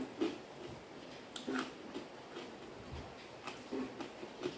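Close-up eating sounds: scattered mouth smacks and chewing clicks at irregular intervals as food is chewed.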